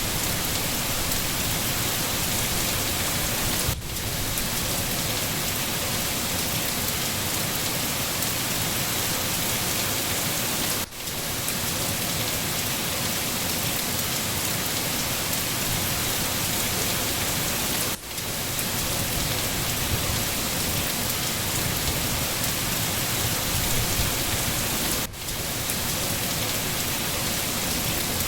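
Steady rain falling, an even hiss. It dips briefly four times at regular intervals of about seven seconds.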